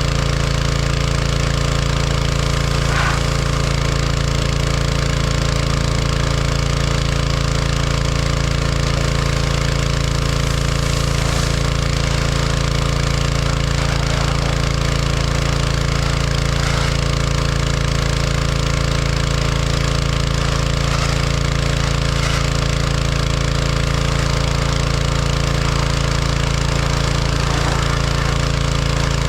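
John Deere 1025R compact tractor's three-cylinder diesel engine running steadily at an unchanging speed, driving the 260B backhoe.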